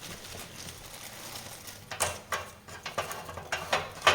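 Small pieces of wood handled and set down on a metal baking tray: a soft rustle, then a series of sharp knocks and clatters in the second half, the loudest near the end.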